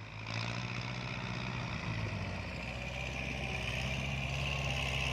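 Farm tractor's diesel engine running steadily, growing slightly louder through the stretch.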